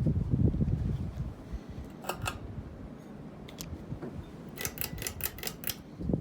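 Craftmade CXL ceiling fan running, with a low rush of moving air that eases after about a second. Two sharp clicks come about two seconds in, and a quick run of about six clicks near the end.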